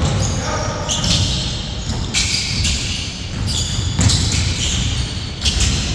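Basketball game play in an echoing hall: a basketball bouncing on the court with sharp knocks and repeated high sneaker squeaks on the floor.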